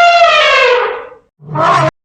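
A loud animal call: one long, high call that holds its pitch and then slides down and fades, followed near the end by a short second call that cuts off suddenly.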